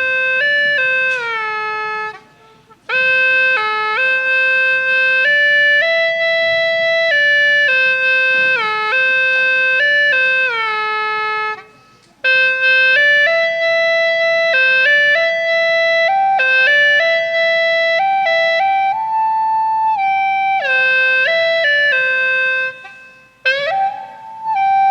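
Hulusi, the Dai gourd flute, playing a slow solo melody of held notes that step up and down, in phrases with three short breaks for breath.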